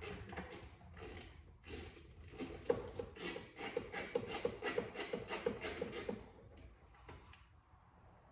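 Hand work on car parts: rubbing and scattered clicks, then a regular run of sharp clicks, about three or four a second, in the middle.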